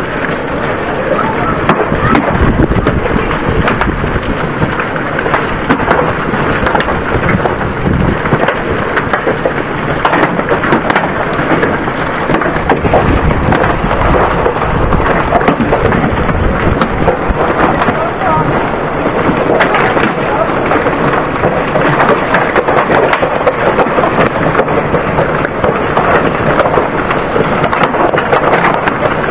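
Heavy hail pelting down: a loud, dense, continuous clatter of countless small impacts.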